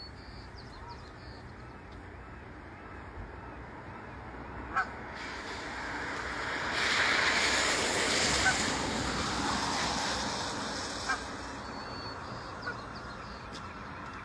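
Geese honking now and then, with a few short sharp calls. Midway a broad rushing noise swells for several seconds and then fades.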